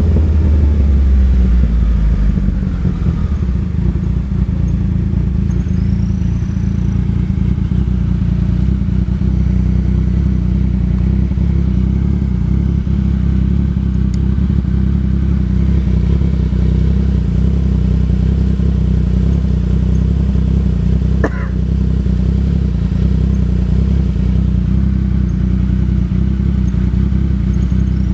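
Yamaha MT-09 Tracer's three-cylinder engine, its note falling over the first two seconds and then running steadily at one engine speed.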